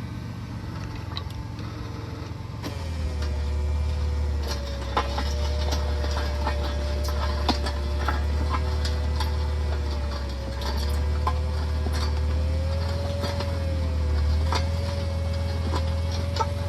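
Tractor-driven post hole auger boring into frozen, rocky ground: a steady engine hum with a wavering whine that grows louder and heavier about three seconds in as the auger takes load, with scattered clicks and knocks of stones against the auger.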